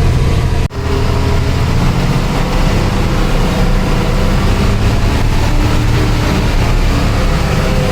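Truck engine running steadily, heavy and low, with a brief break in the sound under a second in.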